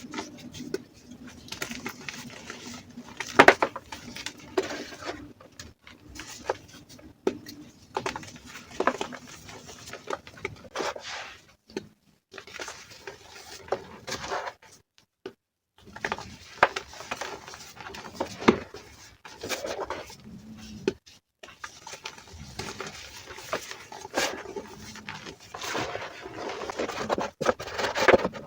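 Reformed gym chalk crushed by hand: irregular crunching and crumbling with a soft powdery crackle, broken by a few short pauses.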